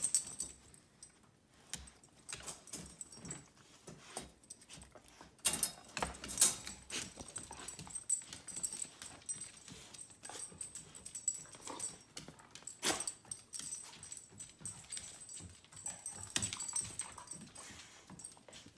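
Puppy sounds: scattered short clicks and scuffs, busier from about five seconds in.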